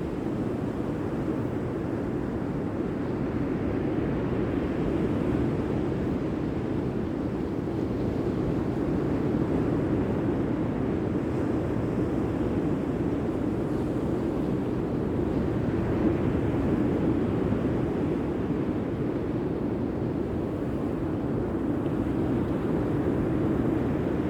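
Sea surf, a steady rushing wash that swells gently every few seconds.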